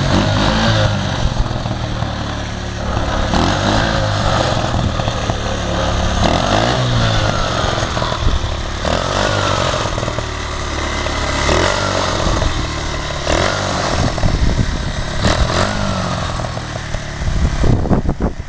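Mini bike engine running hard under way, its revs rising and falling again and again as the throttle is worked.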